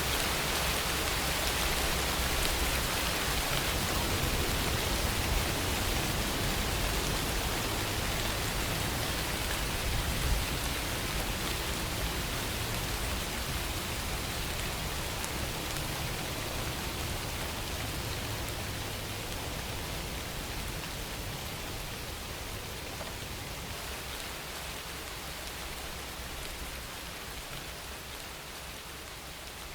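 Steady rainfall, an even continuous hiss that grows gradually quieter.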